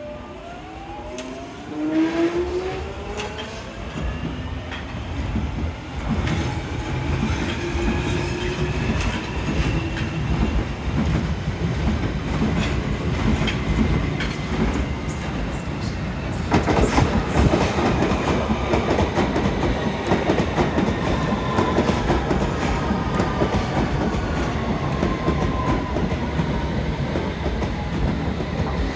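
London Underground Metropolitan line S8 Stock train running into the station: a rumble with wheels clicking over the rail joints, and an electric motor whine that rises in pitch early on and falls later. It gets louder about two seconds in and again about halfway through.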